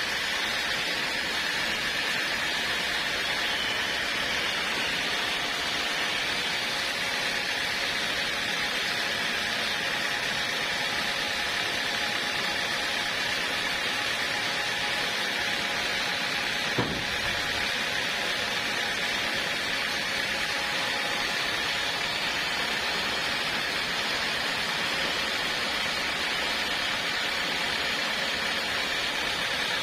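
Portable sawmill running steadily, a continuous machine noise with faint steady tones, and one sharp click about 17 seconds in.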